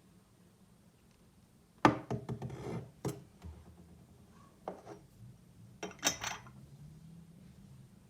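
Porcelain teapot being handled, its lid and body clinking and knocking. There are two short clattering clusters, about two and six seconds in, with a single knock between them, and some hits ring briefly.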